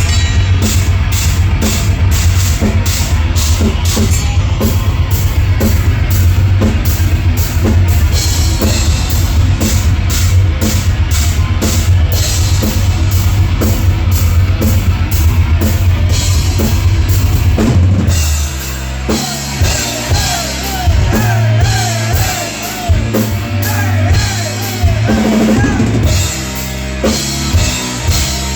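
Live heavy rock band playing an instrumental passage: pounding drum kit with rapid bass drum under distorted guitars and bass. About two-thirds of the way in the band breaks into a stop-start riff while a lead guitar line with bent, wavering notes plays over it.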